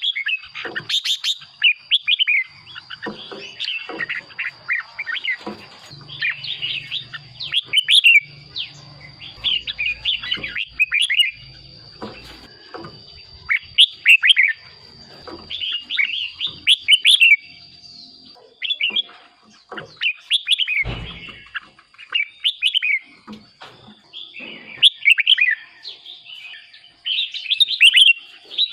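Red-whiskered bulbul singing: short, bubbly whistled phrases repeated every second or two, with a thin steady high tone behind them. There is a single knock about three quarters of the way through.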